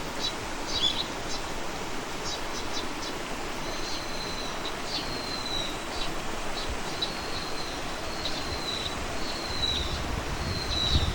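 A bird calling repeatedly: short, thin, high notes, each falling slightly in pitch, about one a second, mixed with a few quick chips. Behind them is a steady outdoor hiss.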